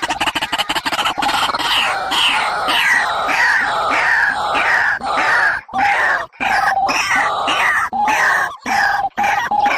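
Bird calls used as a trapping lure: a busy run of harsh, downward-sliding notes repeated many times, with a few short held notes later on.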